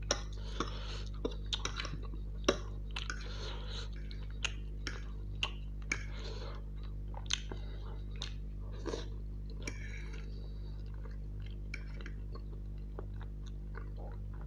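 Close-miked chewing of Maggi noodles, with many sharp clicks from a metal fork on the plate as noodles are twirled. A steady low hum runs underneath.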